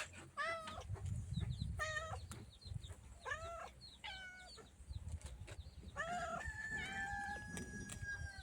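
Yard chickens calling: four short rising-and-falling calls, then a long held call starting about six seconds in, like a rooster's crow.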